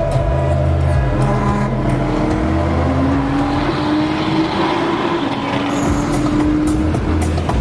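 A car engine accelerating, its pitch climbing steadily for several seconds, with background music with a heavy bass line underneath.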